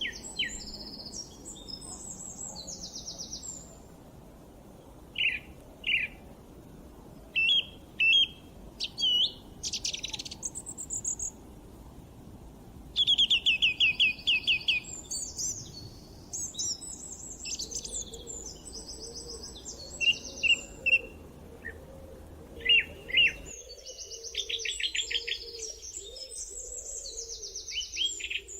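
Songbirds singing and calling: quick chirps, rapid trills and short whistled notes, several overlapping. A low steady background noise sits under them and cuts out abruptly near the end.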